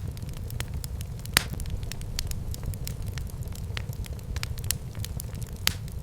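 Fireplace fire crackling: many small snaps over a steady low rumble, with a louder pop about a second and a half in and another near the end.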